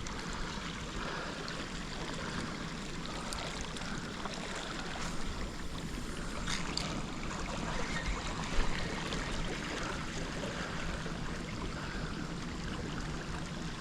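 Steady rush of flowing water, with a few faint ticks.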